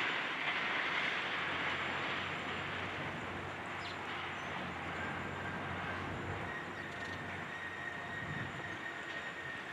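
Heavy machinery, a high-reach demolition excavator, running with a steady rumbling noise that eases slightly after the first couple of seconds.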